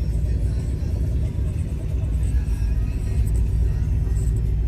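A steady, deep low rumble with music playing underneath it.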